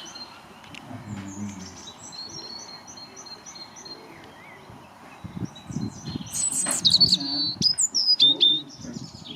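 Birds calling: a steady run of short, high chirps repeating throughout, with louder, sweeping, falling calls crowding in for a couple of seconds near the end. A low rumble sits underneath around the middle.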